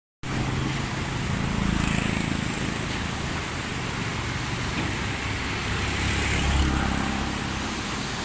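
A motor vehicle engine hums low and steady under an even rushing noise, swelling about two seconds in and again near the end.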